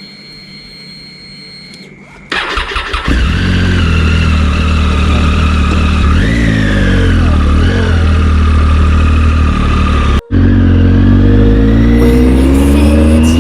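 Triumph Tiger 800's three-cylinder engine being started: after a faint steady whine, the starter cranks briefly about two seconds in and the engine catches and settles into a steady idle, blipped twice. After a brief dropout near the end, the engine revs up in a slow rising climb.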